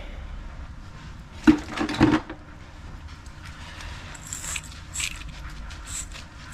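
Two sharp metallic clanks with a brief ring, about a second and a half in, as of metal tools or copper fittings knocked together during plumbing work. Later comes a run of short, high scratchy scuffs about once a second.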